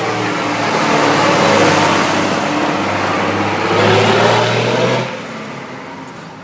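Vintage tractor engine running loudly close by, its pitch shifting and rising, then the sound falls away about five seconds in as it moves off.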